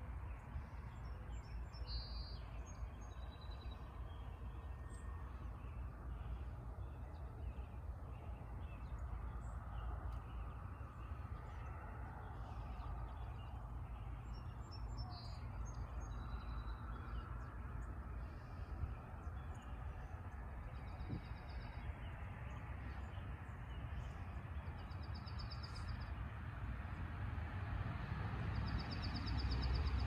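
Songbirds singing at dawn: short, high trilled phrases a few seconds apart, over a steady low rumble that grows louder near the end.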